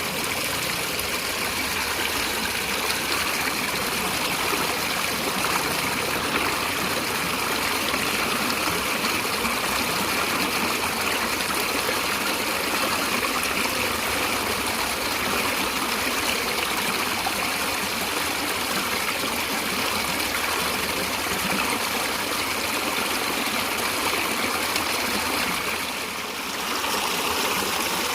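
Water of a stream flowing and trickling in a steady, even rush, dipping briefly near the end.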